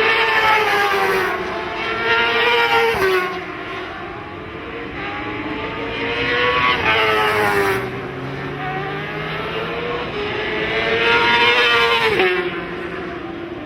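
Racing motorcycles passing at speed one after another, about four times: each engine note climbs as the bike approaches and drops sharply as it goes past.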